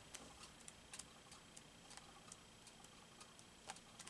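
Near silence: room tone with faint scattered light clicks, a few a second, and a slightly sharper click near the end.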